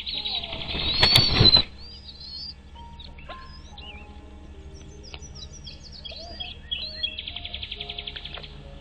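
Birds calling: a loud high trill with a noisy burst in the first second and a half, then scattered short chirps and whistles, and another rapid trill near the end, over a low steady hum.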